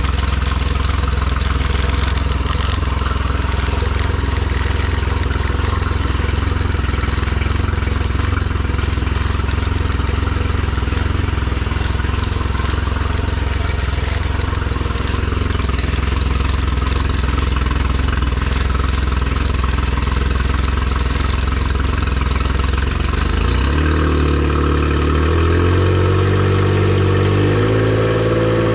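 Honda 50 hp three-cylinder fuel-injected four-stroke outboard motor idling steadily. Near the end it is revved up in a few steps to higher speed.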